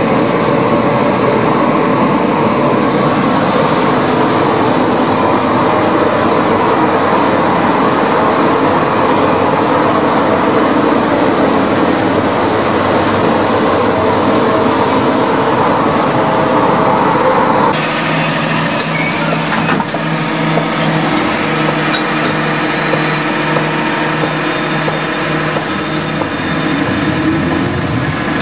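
Suburban electric train running along the track, heard from inside the carriage as a steady rumble of wheels on rails. About 18 seconds in it changes suddenly to a steadier, slightly quieter electric hum with a low pulsing tone, from a train standing at a station platform.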